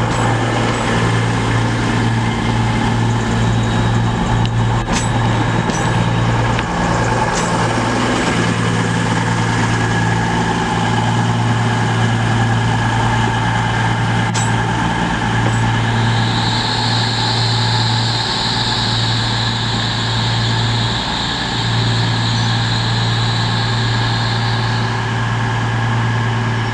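A train idling with a steady low engine hum. A hiss of air comes in a little past the middle and lasts several seconds.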